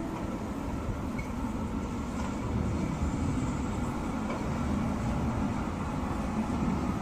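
Tram running on its rails: a steady low rumble with no distinct events.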